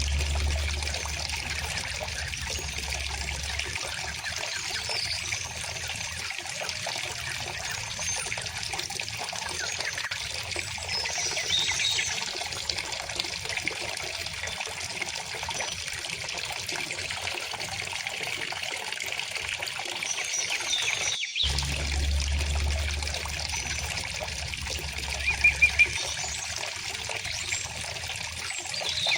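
Stream water running steadily, with small birds chirping now and then over it. A low hum sits underneath near the start and again about three-quarters of the way through.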